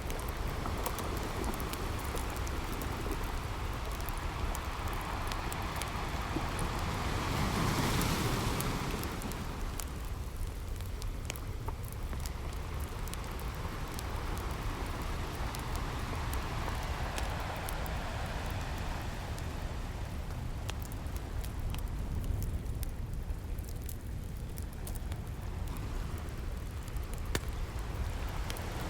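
Campfire crackling with scattered sharp pops over a steady wash of ocean waves. The waves surge louder about eight seconds in and again more softly midway.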